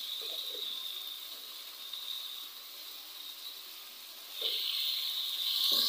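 Sliced onions and tomatoes sizzling in hot oil in a wok while being stirred, a steady hiss that eases off in the middle and grows louder again about four seconds in.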